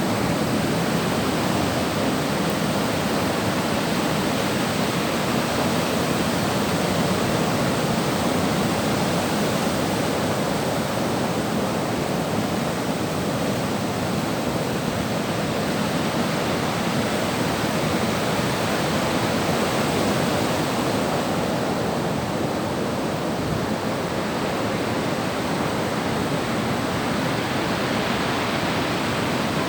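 Sea surf washing steadily on the shore, a continuous wash of waves with no single breakers standing out.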